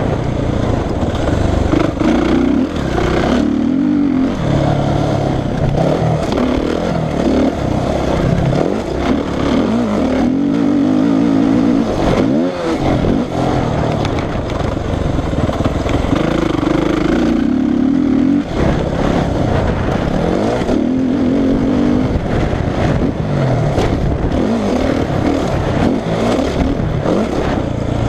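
Suzuki RM-Z450 motocross bike's four-stroke single-cylinder engine revving up and dropping off over and over, the note holding briefly between each rise and fall as the bike is ridden hard.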